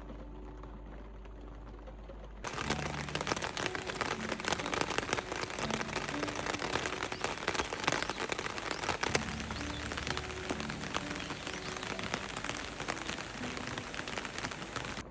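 Soft background music, then about two seconds in a sudden switch to dense rain pattering on a camper van's roof, a thick patter of drops with the music faintly underneath.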